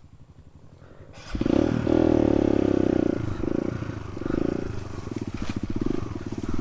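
Trail motorcycle engine, quiet at first, then the throttle opens about a second in and it runs loud and steady under load, its pitch wavering slightly.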